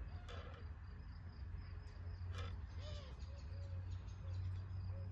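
Outdoor natural ambience: insects chirping steadily in a high band, with short low-pitched calls repeating and a few brief clicks over a constant low rumble.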